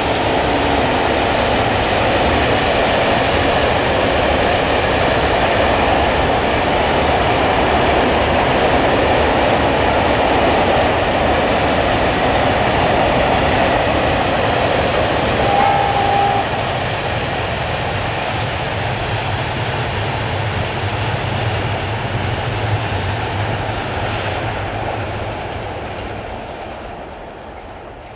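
Loaded freight train rolling past, its wheels clattering over the rail joints. It is loud and steady, then fades away over the last few seconds.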